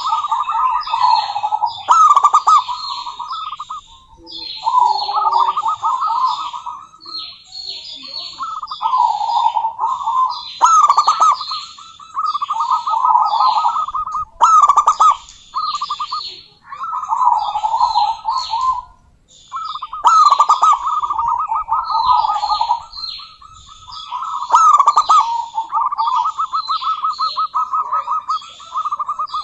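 Zebra doves cooing in repeated rippling phrases of quick staccato notes, each phrase a few seconds long with short pauses between, with higher chirping above them throughout.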